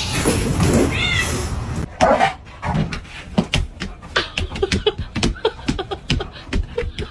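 A cat's meow-like call over a noisy background about a second in, then, from about two seconds, a run of scattered sharp clicks and taps.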